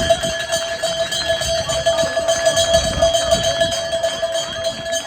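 Cowbells shaken by roadside spectators at a cycling race, giving a continuous ringing clang with one strong steady tone.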